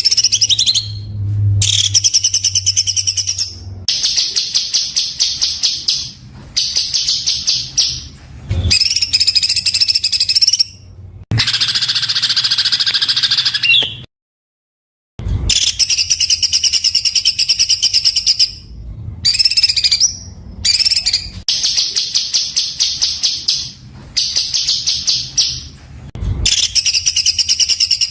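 Songbird singing loud, very fast trilled bursts, a harsh and tightly packed 'tembakan' song, in phrases of one to three seconds with short gaps between them. The sound cuts out completely for about a second midway.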